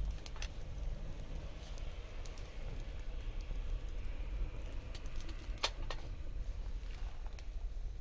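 Wood fire crackling, with scattered sharp pops and snaps, the loudest pair a little past halfway, over a low steady rumble.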